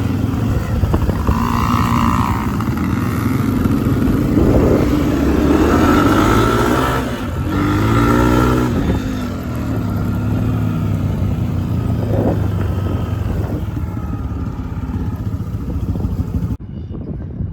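Small 50 cc kids' dirt bike engines running and revving, their pitch rising and falling several times through the middle. The sound thins suddenly near the end.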